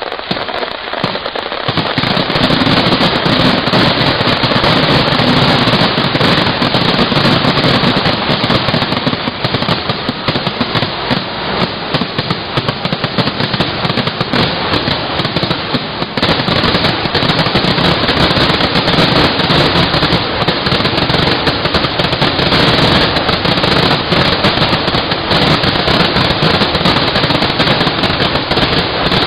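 Aerial fireworks bursting in a rapid, unbroken barrage of bangs and crackling, building up over the first couple of seconds.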